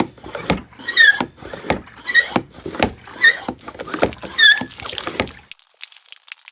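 Repeated short squeaks, roughly one a second, each with a sharp click or knock, over a light clatter from a small hand-worked mechanism. The clatter stops about five seconds in and light crackling follows.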